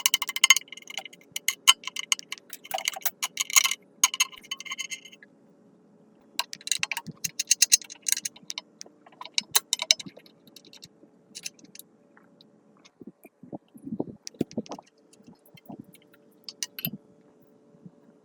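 Runs of rapid metallic clicking, much like a ratchet wrench, mixed with scattered taps and clinks of tools on metal parts. A few duller knocks and scrapes come near the middle of the second half.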